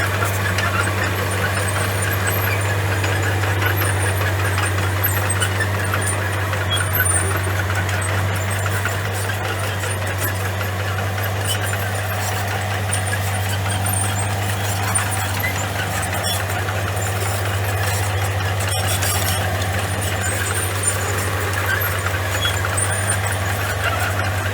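Komatsu bulldozer's diesel engine running steadily under work, a deep even hum, with scattered short high squeaks and clicks over it.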